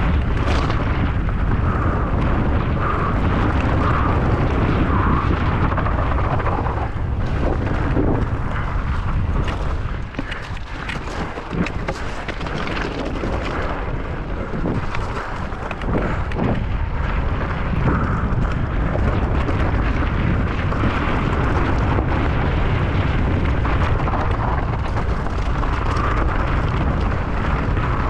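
Heavy wind buffeting the microphone of a camera on a mountain bike descending at speed, with the bike clattering and rattling over rough ground. The noise eases for a few seconds midway, then builds again.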